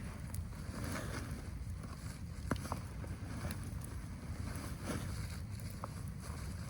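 Low, steady rumble of storm wind, with a few scattered sharp clicks.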